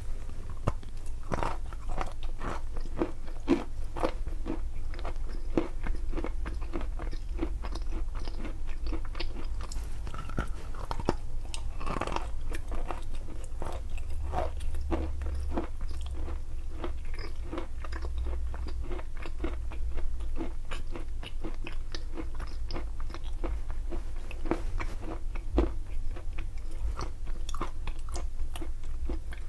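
Close-miked biting and chewing of lumps of edible chalk and clay: dense, irregular crunching and crackling.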